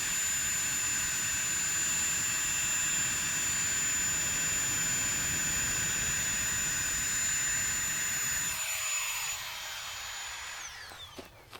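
A small high-pitched motor or fan running steadily with a thin whine, then switched off and winding down, its pitch falling as it stops about nine to eleven seconds in.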